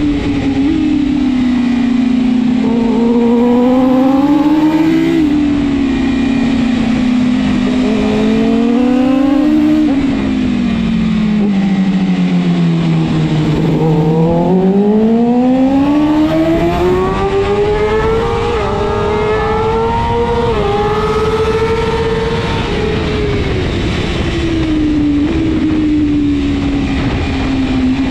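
BMW S1000RR superbike's inline-four engine at racing revs, its pitch sliding down to a low point about halfway through and climbing back up, with several abrupt steps of gear changes along the way.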